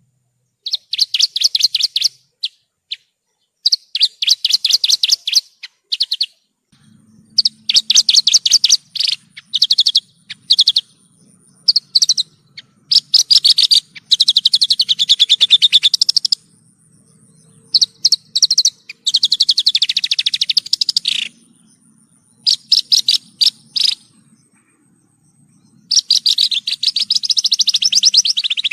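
Javan bush lark (branjangan) singing: phrases of rapid, high chattering notes, each one to three seconds long, separated by short pauses.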